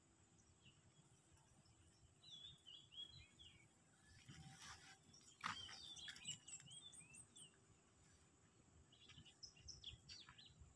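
Faint birdsong: several short warbling phrases of chirps, one of them ending in a quick rising run of short high notes. A single sharp click sounds about halfway through.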